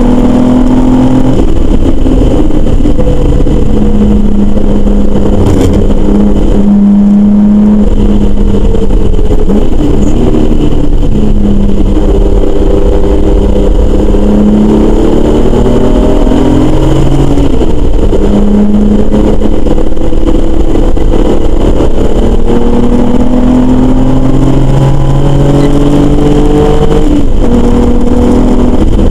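BMW race car's engine heard from inside the cabin at racing speed, revs climbing through each gear and dropping at every upshift or downshift, several times over.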